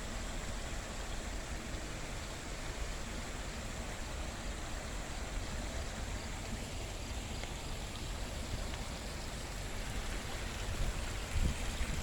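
Water of a small garden waterfall splashing and rushing steadily, with a brief low rumble near the end.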